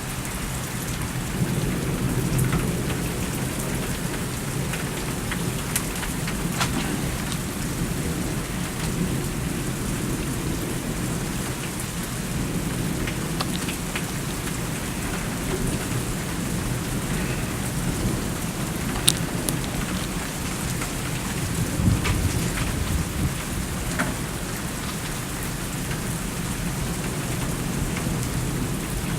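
Steady heavy rain during a thunderstorm, with low rolling thunder rumbling underneath and swelling now and then. A few sharp taps of drops stand out, the loudest about 19 and 22 seconds in.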